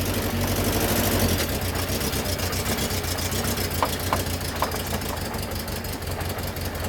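BMW E36 engine running with paint in place of its motor oil: a steady low drone with a fast, even ticking that grows stronger partway through.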